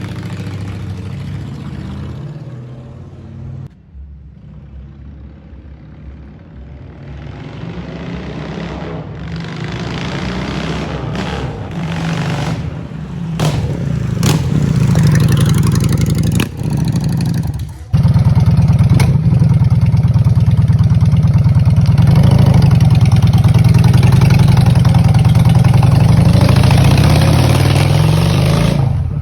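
Honda Shadow V-twin motorcycle engine running through cut-down mufflers. It eases off a few seconds in, then builds and is held loud through the second half, with a couple of brief drops in between.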